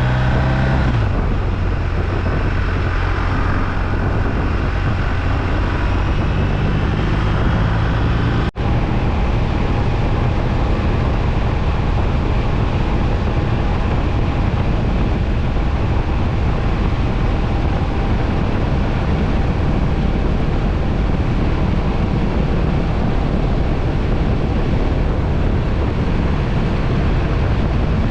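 BMW R1250RT's boxer twin engine running steadily under way, with wind rushing past the microphone. The engine note rises briefly near the start. The sound cuts out for an instant about eight seconds in.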